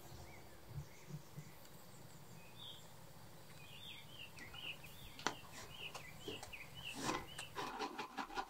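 Faint outdoor ambience with small birds chirping, a run of short high chirps in the middle. Several sharp clicks and knocks follow in the last few seconds.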